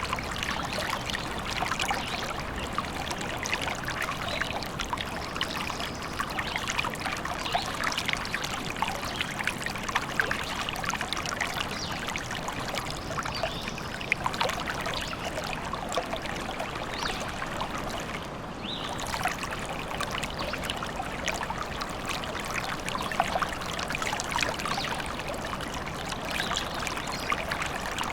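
Forest stream trickling and babbling steadily, a dense patter of small gurgles and splashes.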